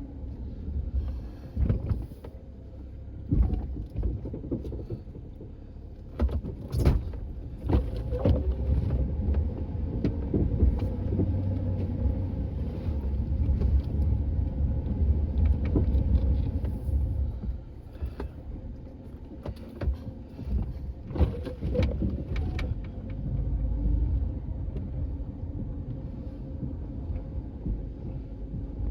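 A vehicle engine running steadily, its loudness swelling and easing, with a few sharp knocks and clunks scattered through it.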